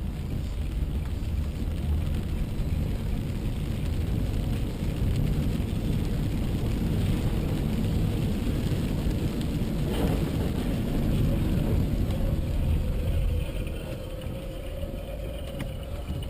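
Car on the move: a steady low rumble of engine and road noise, with one short sharp knock about ten seconds in.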